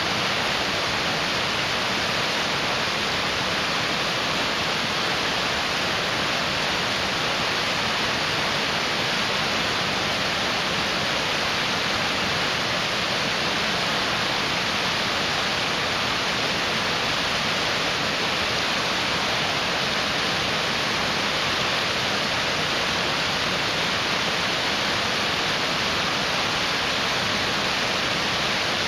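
Mountain stream rushing over rocks: a steady, even roar of water.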